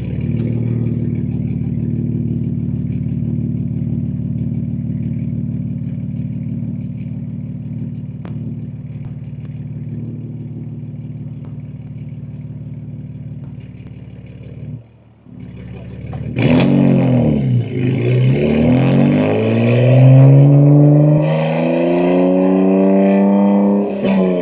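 BMW M2 G87's twin-turbo S58 straight-six, with catless downpipes and an equal-length mid pipe, idling steadily for about fifteen seconds, its level slowly easing. After a brief dip it pulls away, the engine note rising and dropping back several times with the gear changes of the manual gearbox.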